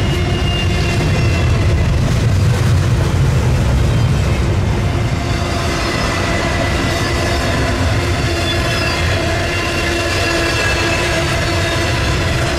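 Freight train rolling past: a steady, loud rumble of steel wheels on rail, with faint high-pitched wheel squeal in the second half.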